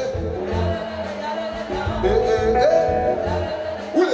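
Live band music with a singer holding and sliding between sustained notes over a repeating bass line.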